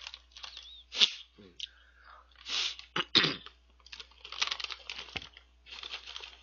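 Close-miked chewing and crunching of a crunchy chocolate star-shaped snack (Choco-byeol), in short crackly bursts, with the plastic snack bag crinkling and a few sharp clicks about one and three seconds in.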